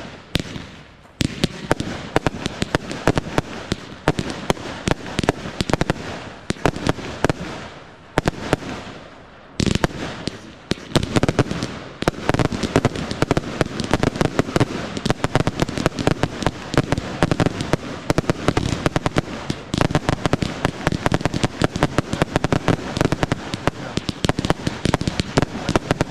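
Fireworks display: a rapid series of shell bursts and bangs, thinning briefly about eight seconds in, then building to a dense, almost continuous barrage.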